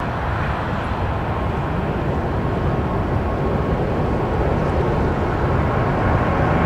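Jet airliner's engines and rumble at the start of a takeoff, a steady roar with a faint steady whine that slowly grows louder.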